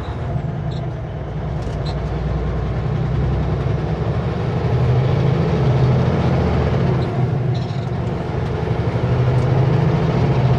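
Kenworth W900L semi truck's diesel engine running as the truck drives, a steady low drone that swells twice, as under acceleration.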